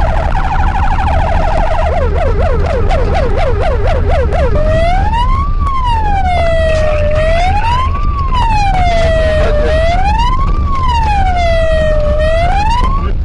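Police car siren cycling through its modes: a rapid two-tone warble, then a fast yelp of about four sweeps a second, then a slow wail rising and falling about every two and a half seconds. Low road and engine rumble sits under it.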